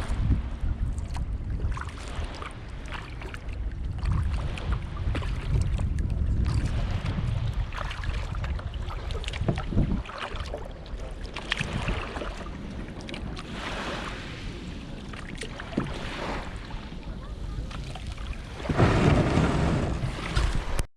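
Kayak paddle splashing through water, with water lapping and a low wind rumble on the microphone. A louder splash comes near the end.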